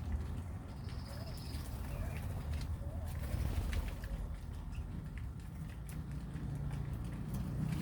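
Birds calling, with soft low cooing notes and a brief high note about a second in, over a steady low rumble.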